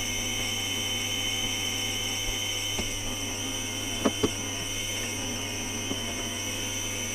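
Steady machinery drone in a yacht's plant space, a constant hum with high whining tones over it. Two sharp knocks come close together about four seconds in.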